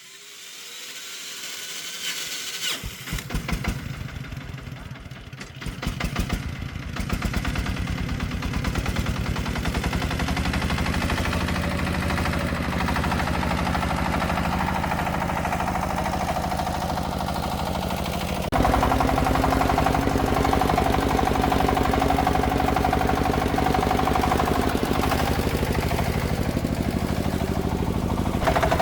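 Công nông farm vehicle's single-cylinder diesel engine being started: a rising spin-up, then it catches about three seconds in, firing unevenly at first before picking up speed and settling into a steady run. About 18 seconds in it suddenly gets louder and keeps running at that level.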